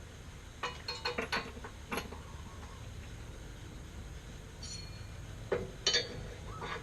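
Scattered metallic clicks and clanks from the engine hoist and drivetrain parts as the LS1 engine and transmission are inched down into the car: a quick run of clicks about a second in, one sharp knock at two seconds, and another cluster near the end.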